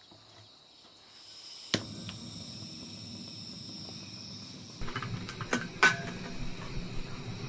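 Food in a camp cooking pot sizzling and simmering as sukiyaki sauce heats over the vegetables, a steady hiss that starts about a second in. Several sharp clicks of utensils or pot come from about halfway to the end, with crickets chirping faintly in the background.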